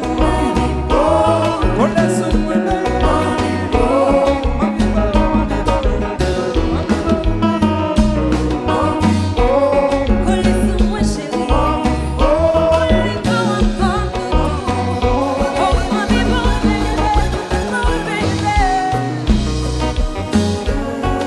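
Live Haitian band music: a vocalist sings over a steady danceable beat with prominent bass and guitar.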